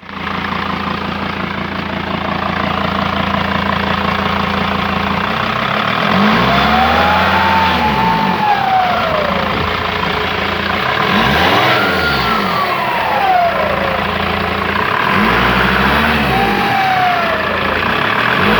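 Mercedes-Benz W210 2.7 CDI five-cylinder diesel idling steadily, then revved up and down three times. A high whistle rises and falls with each rev: the turbocharger whistle whose cause the owner is asking about.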